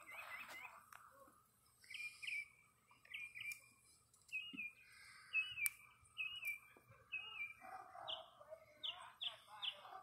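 A songbird singing faintly, repeating a short two-note chirp phrase about once a second.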